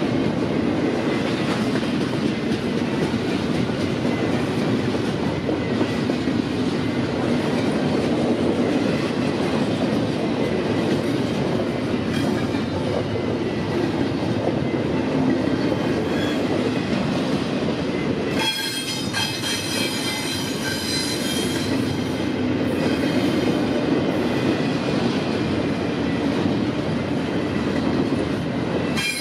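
Freight train cars rolling past on the rails in a steady, continuous rumble. About two-thirds of the way through, a high-pitched wheel squeal joins in, and it flares again briefly near the end.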